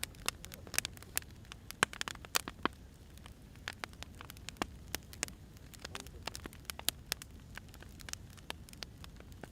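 Wood fire crackling: burning firewood giving off irregular sharp pops and snaps over a low steady rumble.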